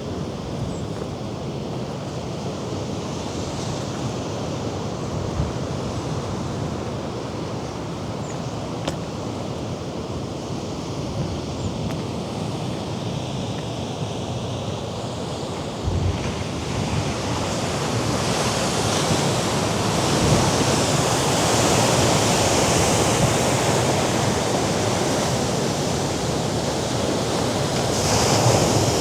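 Sea waves breaking against rocky cliffs below, with wind. The surf grows louder about halfway through.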